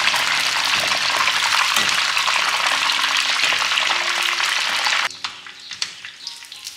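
Chicken frying in hot oil, a loud, dense sizzle that drops off suddenly about five seconds in, leaving quieter crackling.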